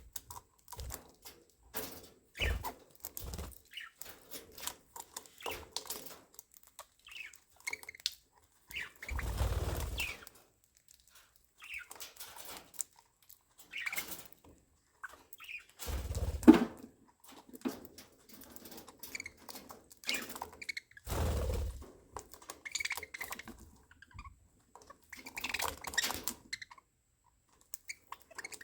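Budgerigars in an aviary giving scattered short chirps and chatter, with clicks and scuffs. Three times a louder rushing burst comes in, a few seconds apart, most likely wings flapping as birds fly.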